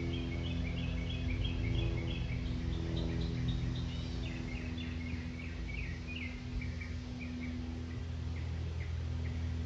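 A songbird chirping: a quick run of chirps in the first two seconds, then slower, spaced chirps, over a steady low drone that holds one pitch.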